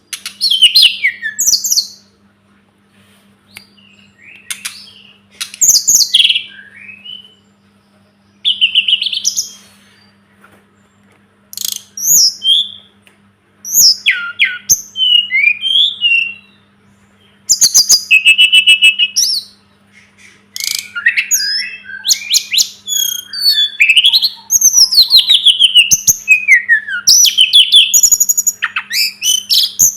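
Tledekan gunung (sulingan gunung) songbird singing in loud bursts of quick high whistles, down-sweeping notes and trills, separated by short pauses at first and running almost without a break in the second half. A faint steady low hum sits underneath.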